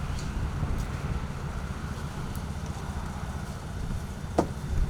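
Steady low rumble, like a vehicle or machinery running, with one short sharp squeak or click about four seconds in.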